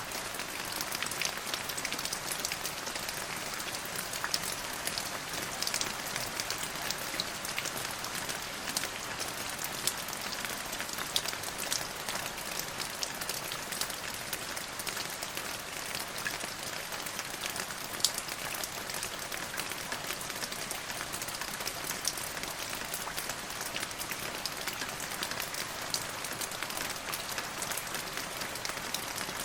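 Steady rain falling, with many small drop clicks on a surface and one louder drop about eighteen seconds in.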